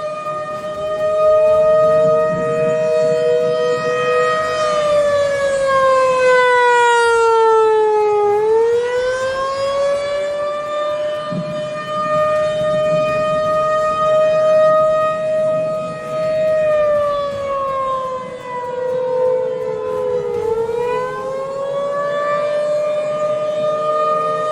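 Siren wailing slowly in two tones together. It holds a steady pitch, sinks and climbs back about four seconds in, holds again, then sinks and climbs once more about seventeen seconds in.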